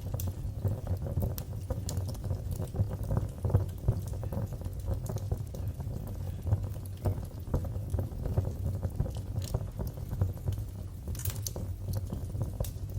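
Wood fire crackling in a fireplace: a steady low rumble of flames with frequent small pops and snaps, and a sharper cluster of pops near the end.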